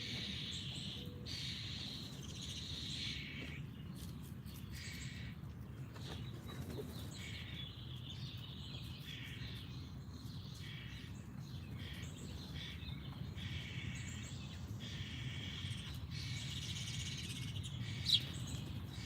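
Wild songbirds chirping and singing in repeated phrases, over a steady low background rumble. A single sharp sound stands out near the end.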